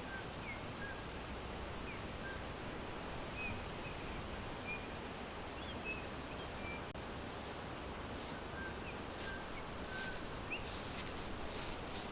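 Small songbirds chirping now and then, single short high chirps scattered through, over a steady hiss of forest background. A few soft rustles near the end.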